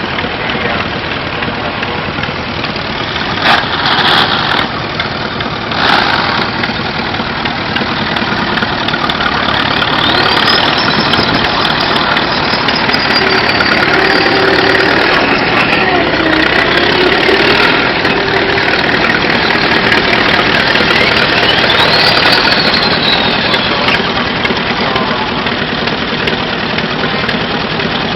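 An engine running steadily at idle, with two short louder noises a few seconds in.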